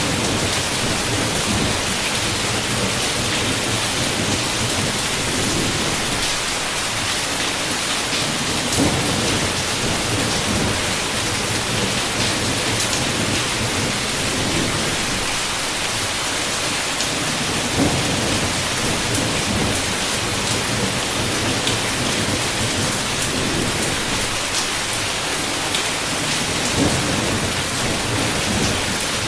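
Heavy rain beating steadily on a window, with thunder rumbling low underneath and swelling now and then. A few sharper taps stand out, about every nine seconds.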